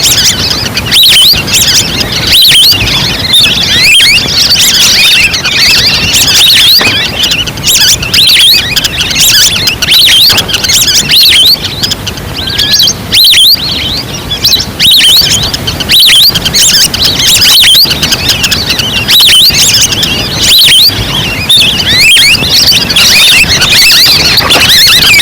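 Lure-call recording of a flock of wild ducks: many overlapping high, whistled chirps and short glides, loud and continuous over a steady hiss.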